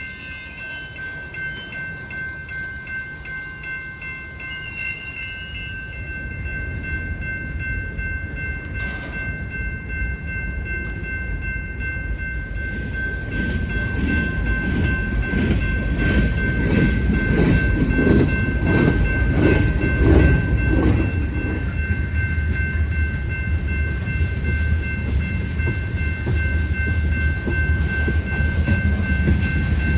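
Freight train approaching and rolling past. A low rumble grows from about halfway in, with a quick run of regular wheel clicks over the rail joints, then settles into a steady rumble of cars going by.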